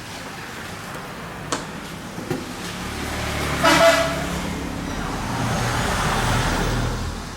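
Passing road traffic: a short vehicle horn toot about three and a half seconds in, then a vehicle running past, growing louder and fading near the end.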